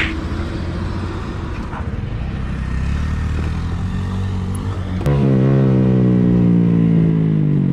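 Motorcycle engine running with a steady low hum. About five seconds in, a louder engine note suddenly comes in and holds, its pitch sinking slowly.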